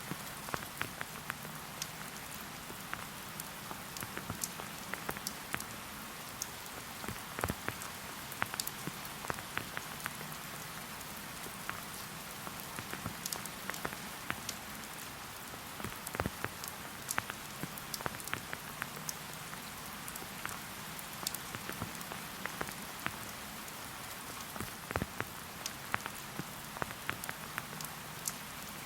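Steady rain falling in a forest, a continuous hiss with many distinct drops tapping close by.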